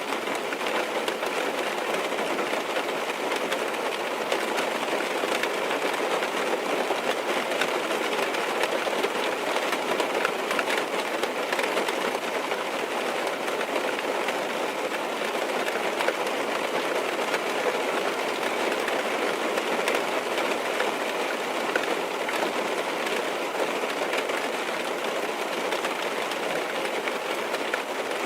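Heavy rain falling on a car's roof and windows, heard from inside the car: a steady, even hiss of rain dotted with many small drop ticks.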